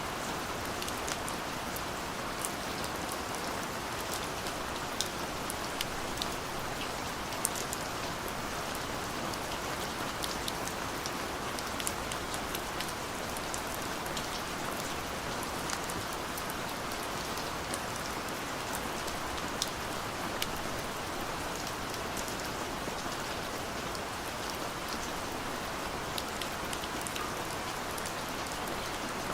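Steady rain falling, with scattered individual drops ticking sharply over the even patter.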